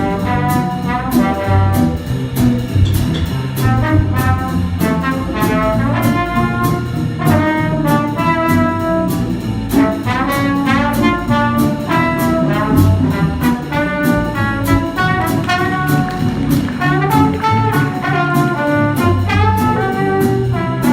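A small jazz combo playing, with brass horns carrying a melody over a steady, even beat.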